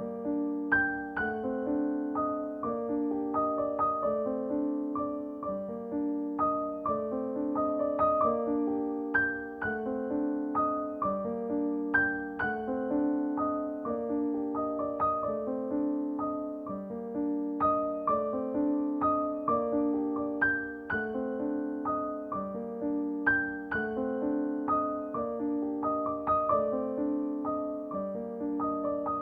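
Background piano music: a gentle repeating pattern of notes.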